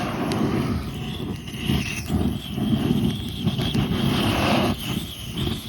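Oak wood fire blazing up, its flames making a low, uneven rumbling noise.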